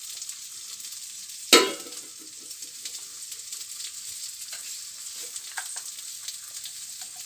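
Wide pot of rice dumplings, jaggery and grated coconut simmering on a gas stove: a steady hiss with faint stirring clicks. One sharp metal clang with a short ring about a second and a half in, a utensil striking the pot.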